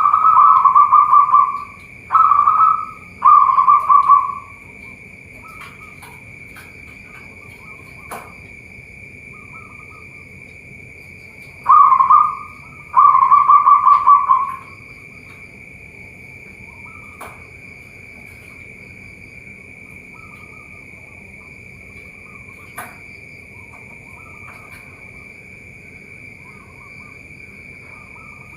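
Zebra doves (perkutut) cooing: a loud bird gives its trilled coo phrases in two groups, near the start and about twelve seconds in, with fainter coos from other doves between and after. A steady high-pitched drone runs underneath throughout.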